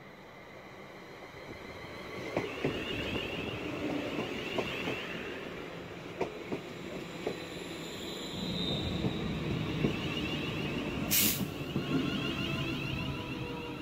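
London Northwestern Railway Class 350 electric multiple unit running past along the platform: a growing rush of wheels on rail with scattered clacks over the rail joints, and a brief sharp high hiss about eleven seconds in.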